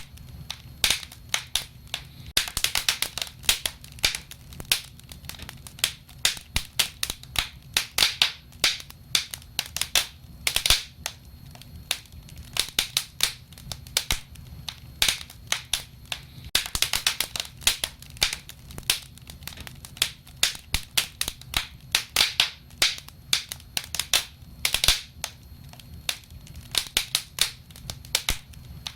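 Wood fire crackling: dense, irregular sharp pops and snaps, bunching into quick flurries now and then, over a low steady rumble.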